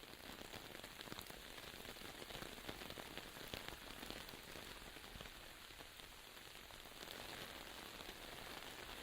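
Light rain falling in a forest, a faint, steady patter of many small drops.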